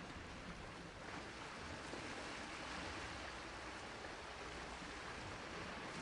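Sea waves washing onto a shore: a steady rush of surf with no separate breaks standing out.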